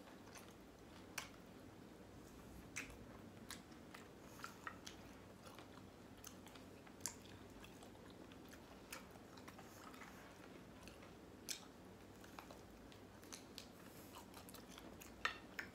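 A person chewing crunchy fried chicken: faint, irregular crunches and mouth clicks from the crisp breading, the loudest near the end.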